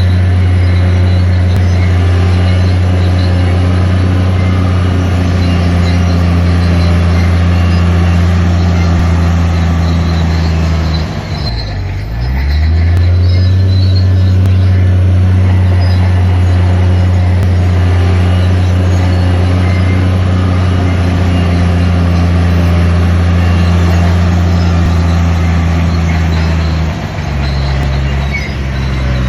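Heavy diesel engine of a SHANTUI DH7-C2 bulldozer running hard and steady; its engine speed dips briefly and climbs back about eleven seconds in, and settles to a lower note near the end.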